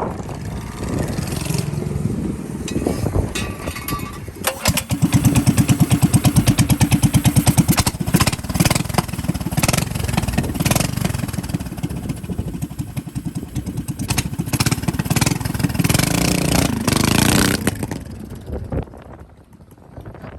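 Mini bike's small single-cylinder engine catching about four seconds in and running loudly with a fast, even pulse, loudest for the first few seconds, then running on before dying away near the end.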